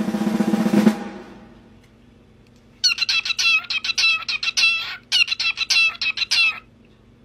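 A snare drum roll ends and dies away in the first second. Then a parrot makes a rapid string of short, high calls in two runs, the first about two seconds long and the second about a second and a half.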